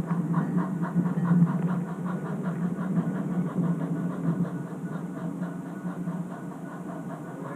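Train running with a quick, regular clicking, about five a second and fading, over a steady low hum.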